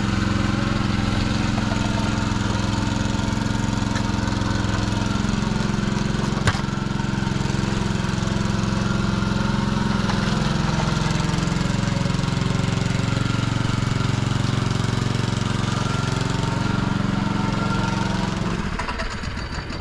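Small petrol engine running steadily, with one sharp knock about six seconds in; the engine sound fades away near the end.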